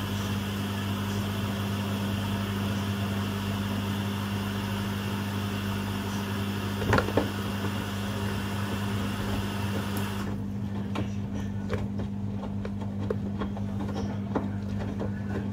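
Front-loading washing machines running early in a Rapid 30-minute wash: a steady rushing hiss of water filling that cuts off suddenly about ten seconds in, over a steady low hum. There are a couple of knocks about seven seconds in, and light clicks and splashes from the drum after the hiss stops.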